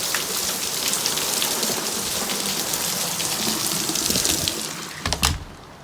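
Heavy rain falling close by, a dense hiss of drops striking a surface. It fades near the end, and a brief knock or bump, the loudest moment, comes just before it drops away.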